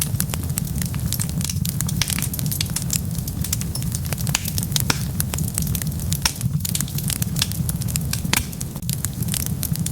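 Wood fire burning with dense, irregular crackles and pops over a steady low rumble of flames.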